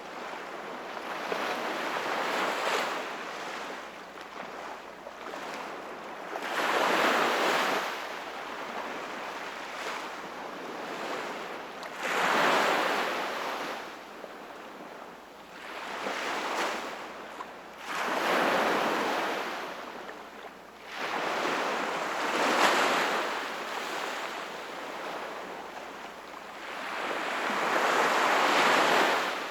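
Sea waves breaking and washing on the shore: a rushing surge that swells and fades again every few seconds, about seven times.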